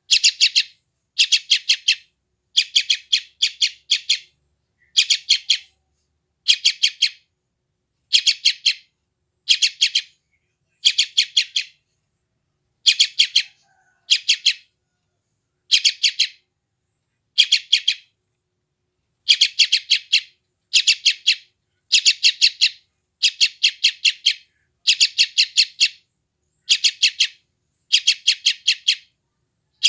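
Young yellow-vented bulbul (trucukan) calling: short bursts of rapid, high chip notes, repeated about once a second with brief pauses, the noisy begging calls of a chick.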